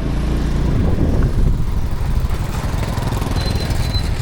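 Motorbike engine running at low revs, a steady low chugging pulse.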